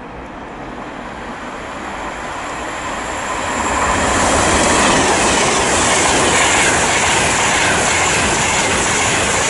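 Express passenger train passing through the station at speed without stopping. The rush of wheels and air builds over the first few seconds and then stays loud and steady.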